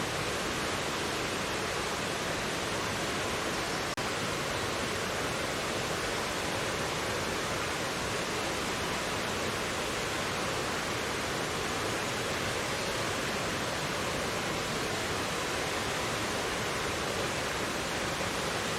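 Mountain valley stream rushing steadily over rocks, a constant even wash of water noise.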